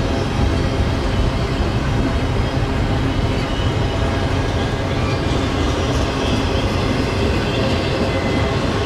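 Double-stack intermodal container well cars rolling past on the rails: a steady, unbroken rumble of wheels on track.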